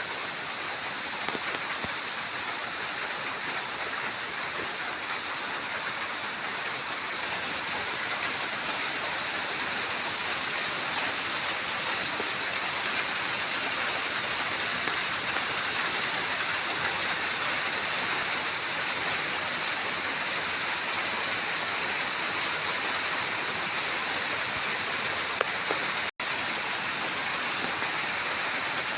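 Steady rain falling, an even hiss with faint scattered drop ticks, growing a little louder over the first several seconds and cutting out for a split second near the end.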